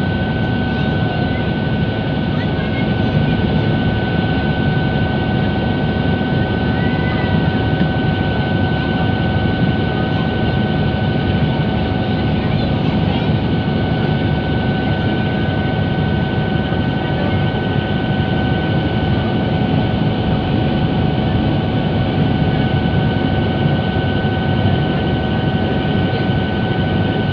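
River Class ferry under way, its engines running at a steady pace: a constant low drone with a steady whine above it and no change in speed.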